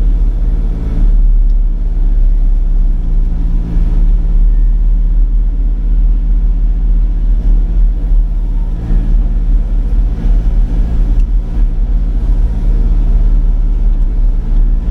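Sany 35 mini excavator's engine running steadily with a deep, even drone while the machine drags material back and forth.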